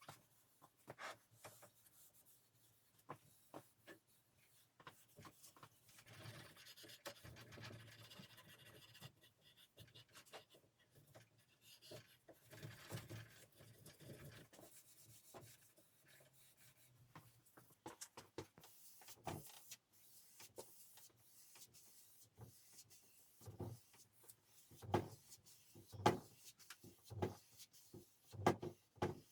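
Faint rubbing and scraping of hand work on wood, with scattered small clicks and a few sharper taps in the last several seconds.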